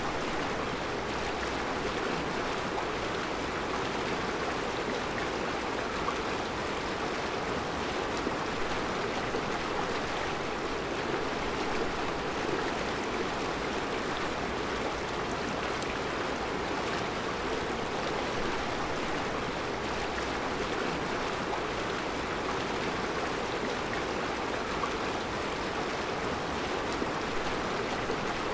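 Mountain river flowing steadily over round rocks in a rocky bed, a constant rushing and burbling of water.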